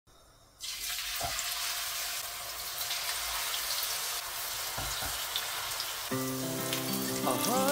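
Fanned eggplant halves frying in hot oil in a pan: a steady sizzle that starts abruptly about half a second in, with a couple of low thumps. Background music comes in about six seconds in.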